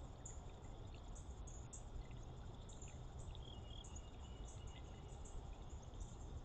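Pre-dawn outdoor ambience: scattered short, high-pitched chirps from small animals, with a brief thin whistle a little past halfway, over a steady low rumble.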